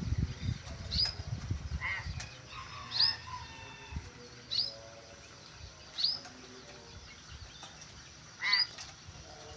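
Caged pet birds repeating a short rising-and-falling call every second or two, some calls with a lower, harsher note under them. There is low rustling and thumping in the first two seconds.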